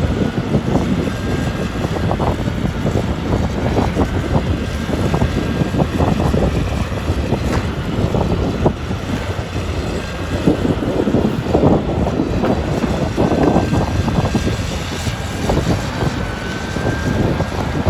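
Caterpillar 325D excavator's diesel engine running steadily under load while clearing land, with irregular cracking and snapping of brush and timber being broken. A faint high whine comes and goes.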